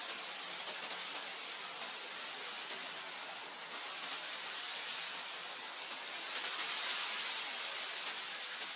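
Wind blowing through grassland: an even hiss that swells briefly about two-thirds of the way in.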